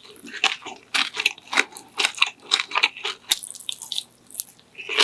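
A person eating close to the microphone: chewing and biting food, with irregular sharp mouth clicks and smacks several times a second.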